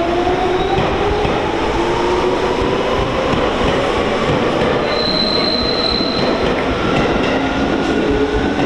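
Electric train running on an adjacent track: a steady rumble of wheels on rail, with a motor whine rising slowly in pitch, and a short high squeal about five seconds in.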